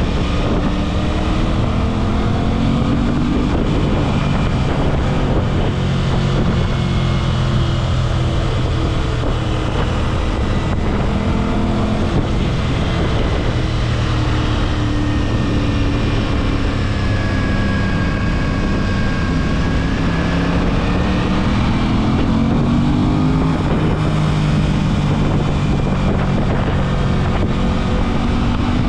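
Aprilia RS 660's parallel-twin engine under way, its pitch climbing in several sweeps as it pulls up through the revs, holding steady in between. Wind rushes over the microphone.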